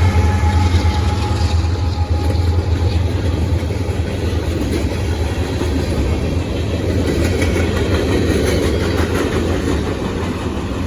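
Freight train passing at speed: a diesel locomotive's deep, steady engine rumble, joined in the second half by the noisier rolling rattle of the freight cars going by.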